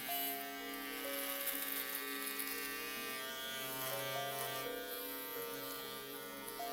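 Electric shaver buzzing steadily, used as soothing white noise, with a soft melody of held notes playing over it.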